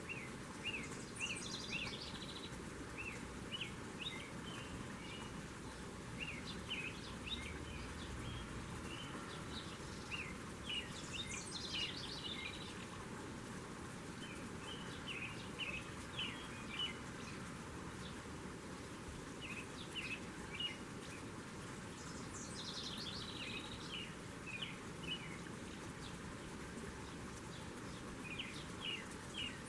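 Songbirds at a feeder calling and singing: short chirps throughout, and a song phrase that ends in a quick run of notes falling in pitch, heard four times, roughly every ten seconds. Steady outdoor background hiss underneath.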